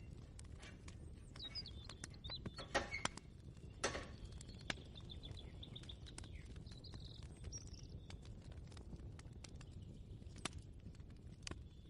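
Kitchen ambience: a low steady hum with scattered light clicks and knocks, and birds chirping, including a short rapid trill around the middle.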